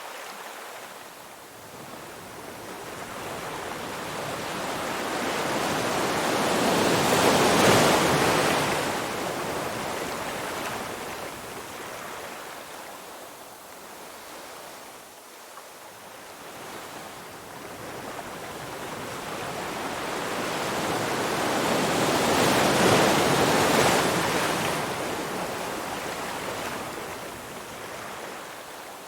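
Ocean waves washing in and drawing back: two slow swells that build to a peak about a quarter of the way in and again about three-quarters of the way in, then fade.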